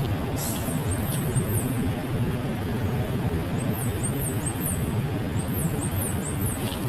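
A bird calling in runs of three or four very high, thin notes, each falling in pitch, repeated several times over a steady low rumble.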